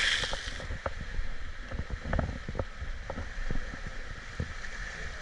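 Kayak being paddled on choppy water: wind rumbling on the microphone, a short splash-like hiss at the start, and scattered light knocks and creaks from the paddle and hull.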